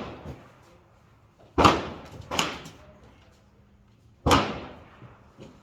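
AR-15-style 5.56 rifle firing single shots: three shots with uneven gaps, about a second and a half in, a moment later, and past four seconds, each a sharp crack with a short fading echo.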